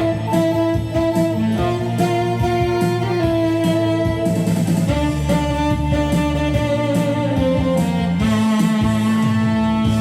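Instrumental music: a saxophone melody of long held notes moving step by step over a steady accompaniment.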